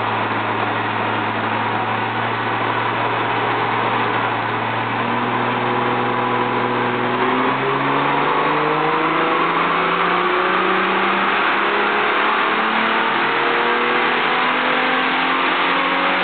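Holden VR Commodore's 4.3-litre stroker V6 running on a chassis dyno. It holds steady revs at first, then from about five seconds in the revs climb slowly and steadily under load as a dyno pull, with a steady rush of noise beneath.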